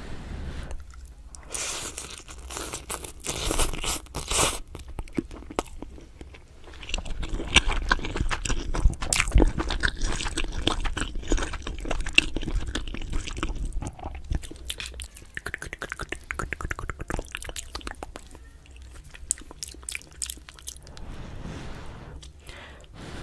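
A person eating close to the microphone: crunchy chewing and biting, a dense run of small crackles that is busiest and loudest in the middle.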